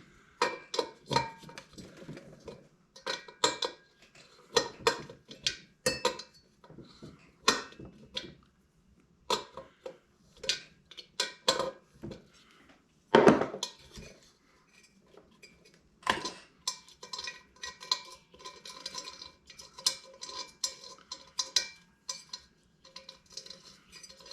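Metal tools clinking and clicking against the metal parts of a Chinese diesel heater as its glow plug is unscrewed and taken out, in irregular sharp taps, some ringing briefly, denser in the second half.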